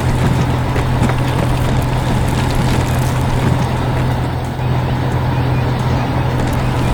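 Heavy vehicle engine running steadily: a constant low drone with a noisy rumble over it, dipping briefly about four and a half seconds in.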